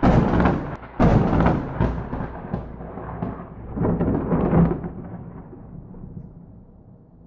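Close thunderclap: a sudden sharp crack, a second crack about a second in and crackling after it, another loud swell around four seconds in, then a low rumble fading away.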